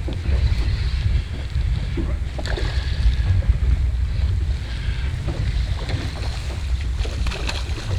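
Strong wind buffeting the microphone in a gusting low rumble, with water lapping and slapping against a small boat's hull.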